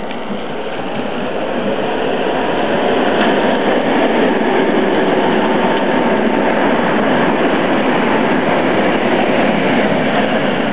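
Rebuilt Tatra T3 tram running on the rails, a steady rumble and rattle of wheels and motors that grows louder over the first few seconds and then holds.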